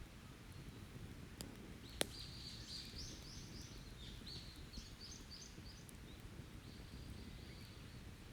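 Small songbird singing runs of short, high chirping notes, with a second phrase near the end. About two seconds in, a single sharp pop from the burning wood of an open campfire, with a fainter crackle just before it, over a low steady background rumble.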